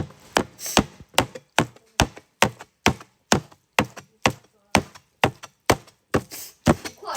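Kitchen knife chopping on a cutting board in steady, even strokes, about two to three a second.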